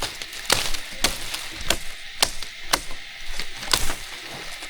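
Repeated sharp strikes on wood, about two a second, with around seven strong blows.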